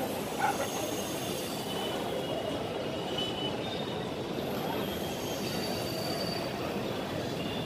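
Passenger train on the station tracks: a steady rumble of wheels on rail, with faint high-pitched wheel squeals coming and going.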